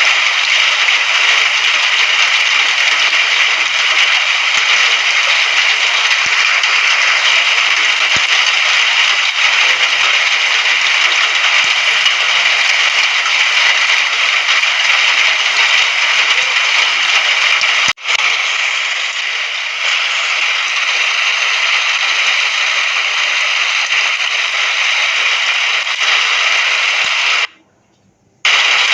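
Steady, dense rain hiss with a crackly patter. It dips briefly about eighteen seconds in and cuts out for about a second near the end before resuming.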